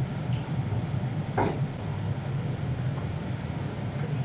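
A steady low hum runs in the background, and a tool clinks once against metal about a second and a half in.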